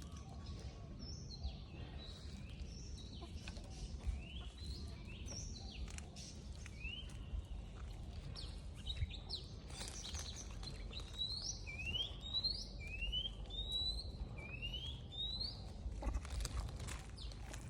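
Birds chirping: a long run of short, rising whistled notes, several a second in the second half, over a steady low rumble.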